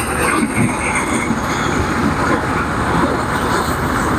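Combine harvester running steadily at work, its engine and threshing machinery giving a loud, continuous mechanical noise.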